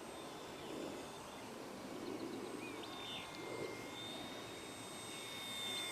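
Faint, thin, steady whine of an electric RC model airplane's motor over light outdoor noise, getting a little louder near the end.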